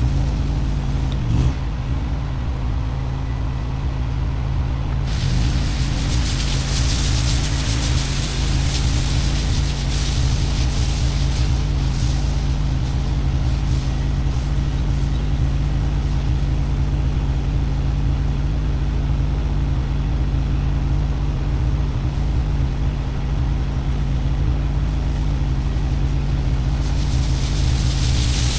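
Pressure washer engine running steadily while high-pressure water sprays onto concrete with a loud hiss. The spray comes in strongly about five seconds in.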